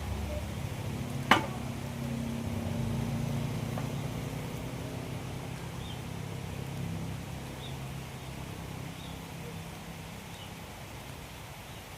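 An engine running steadily with a low hum that eases slightly in pitch and fades, with one sharp knock about a second in.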